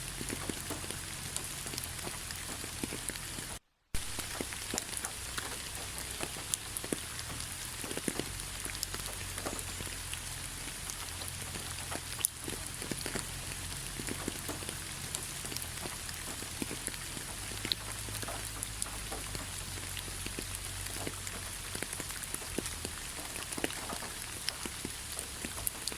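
Steady rain falling on a forest road, a constant patter with many separate drops ticking through it. The sound cuts out completely for a split second about four seconds in, then resumes.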